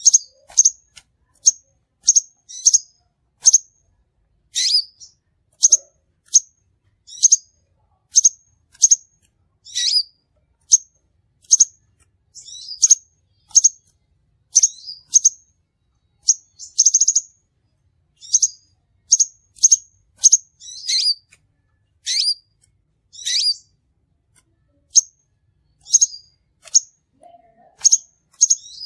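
Crimson sunbird calling: a steady run of short, sharp, high chirps, about one or two a second, with now and then a longer note that slides down in pitch.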